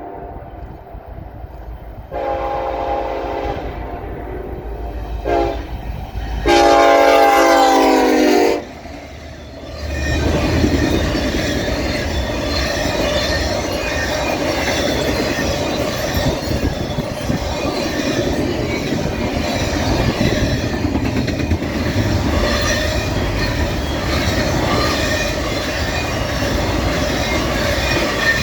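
Horn of a Norfolk Southern freight train's lead locomotive, an EMD SD70ACe, blowing the grade-crossing signal: a long blast, a short one, then a final long and loudest blast. The locomotives and freight cars then pass close by with a steady rumble and clickety-clack of wheels over the rail joints.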